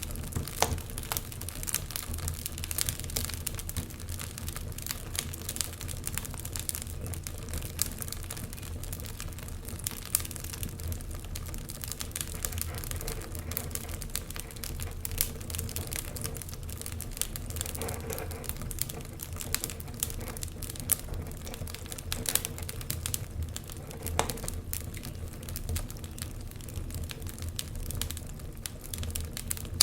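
Open fire crackling steadily with frequent sharp pops, over a low rumble.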